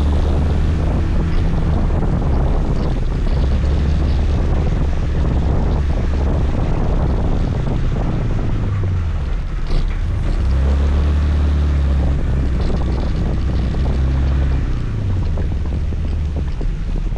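Scooter engine running under way, with wind rushing over the microphone and road noise. The engine note falls and picks up again twice, about nine and fifteen seconds in.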